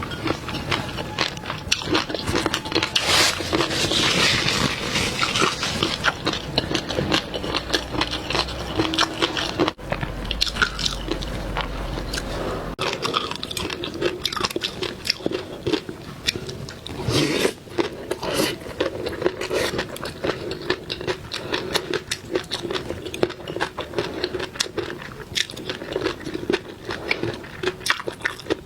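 A person eating seafood close to the microphone: continuous, irregular biting, crunching and chewing.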